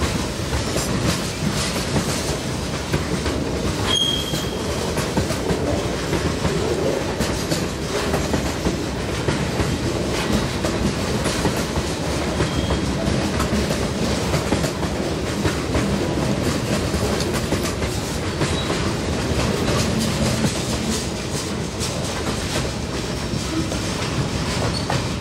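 Freight train cars (steel coil cars and boxcars) rolling steadily past at close range, with a clickety-clack of wheels over rail joints and a continuous rumble. Two short high wheel squeals are heard, about four and twelve seconds in.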